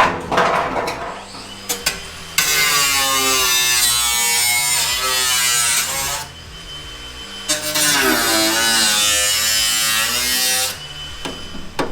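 A handheld power tool runs in two bursts of about four and three seconds, its whine wavering in pitch under load as it cuts into the rusted sheet steel of a car body. Background music plays beneath it.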